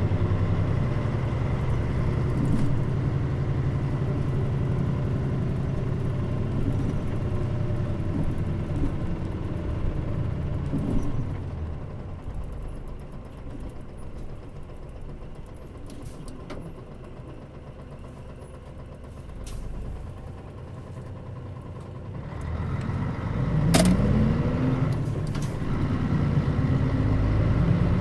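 Mitsubishi Fuso Aero Star route bus (KL-MP35JM base, Nishinippon body) heard on board, its diesel engine running under way. The engine sound drops to a quieter stretch midway, then picks up again with a rising whine and a sharp click about 24 seconds in.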